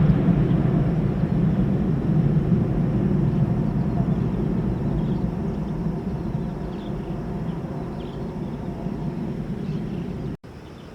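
Jet airliner's engine rumble fading steadily as the plane moves away down the runway. It cuts out abruptly near the end, then a quieter rumble comes back.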